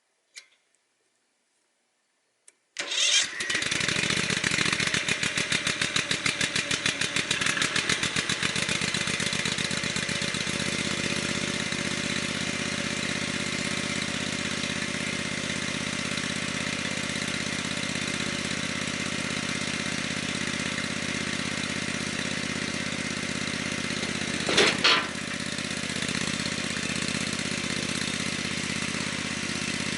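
A small engine starts about three seconds in and runs steadily, pulsing evenly at first and then settling. There is one sharp knock late on.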